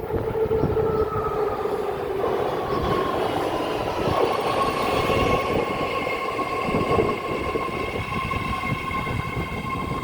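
BART train at a station platform: a steady rumble with high-pitched whines that grow stronger a couple of seconds in.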